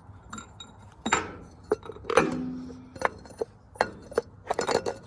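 Metal hand tools clinking and clanking against each other and on metal, a series of sharp knocks with one louder clank about two seconds in that rings briefly.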